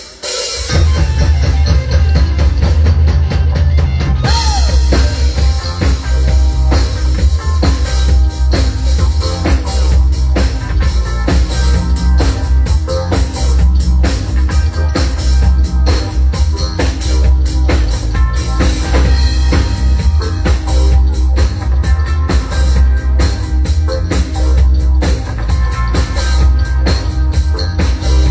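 A band playing a song: the drum kit and heavy bass come in together under a second in, then a steady driving beat with dense drum hits.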